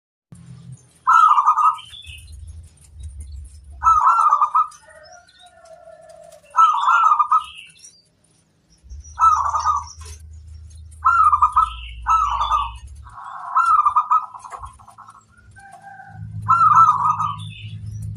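Zebra dove (perkutut) cooing: about eight short bursts of quick, repeated coo notes, a second or a few seconds apart, with fainter high chirps in between.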